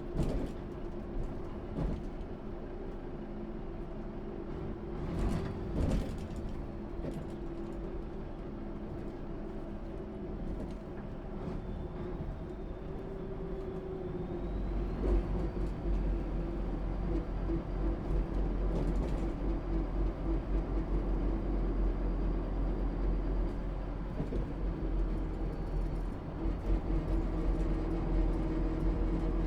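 MAN SÜ 272 bus's diesel engine running steadily, with a few sharp knocks in the first several seconds. About halfway through a heavy low rumble sets in and the sound grows louder, as the bus gets under way.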